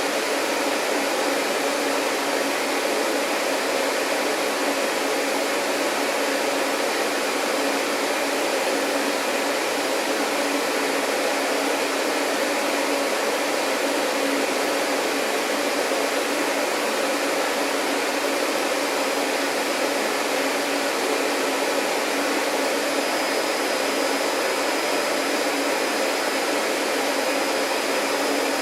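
Vacuum cleaner running steadily: an even, unchanging motor hum and rush of air, with a faint high whine joining near the end.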